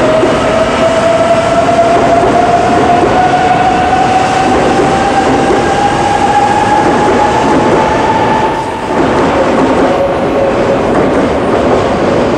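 Shinkansen train pulling away, its traction motors whining in a tone that climbs steadily in pitch as it accelerates, over a loud rolling rumble with wheel clatter. About two-thirds of the way in, the whine drops away and the rumble carries on.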